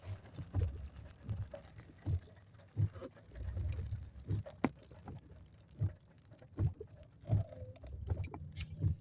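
Inside a car driving through a heavy rainstorm: rain patter and road rumble, with a low thump repeating about every three-quarters of a second and a longer low rumble about three to four seconds in.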